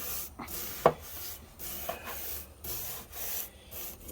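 Scrubbing strokes up and down along a camper air conditioner's thin, dust-caked coil fins, about two strokes a second, loosening the caked-on dust. One sharper tap sounds just under a second in.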